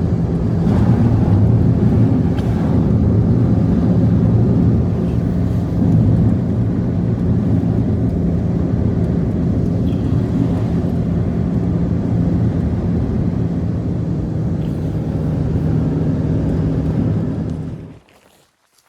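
A loud, steady, low mechanical drone with a constant hum in it, cutting off abruptly near the end.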